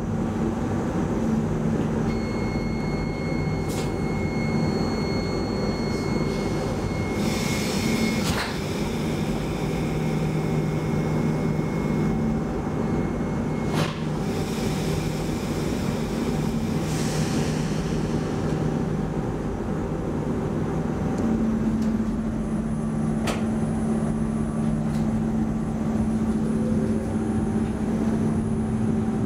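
Inside an X10 electric commuter train: a steady hum from its onboard equipment while it stands at the platform, with a few sharp clicks. Near the end a motor whine rises in pitch as the train pulls away.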